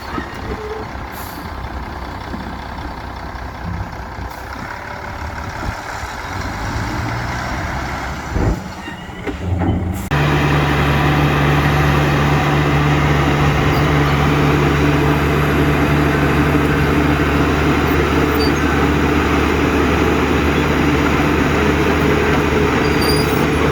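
Heavy diesel construction machinery running. About ten seconds in, the sound jumps suddenly to a louder, steady engine drone that holds to the end.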